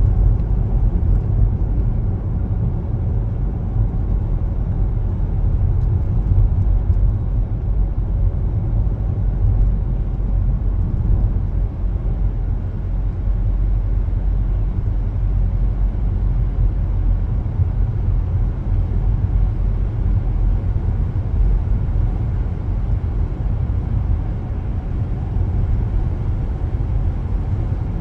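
Car driving at a steady pace: a constant low rumble of road and tyre noise with the engine underneath, no sudden events.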